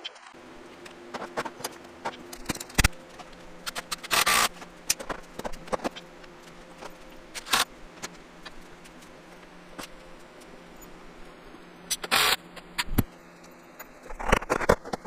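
Scattered knocks, taps and clatter of lumber and tools being handled while a wooden workbench is put together, with two short scraping bursts about four and twelve seconds in and a flurry of knocks near the end. A faint low steady hum sits underneath.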